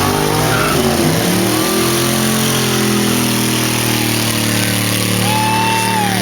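Engine revs dropping over the first couple of seconds, then running steadily at a low, even speed.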